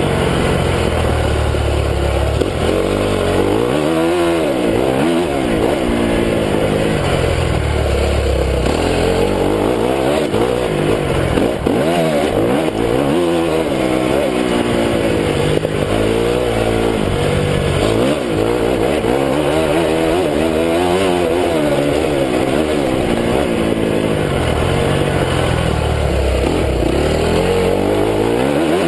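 Honda CRF250 motocross bike's four-stroke single-cylinder engine being ridden hard, its pitch rising and falling again and again as the rider revs through the gears and backs off.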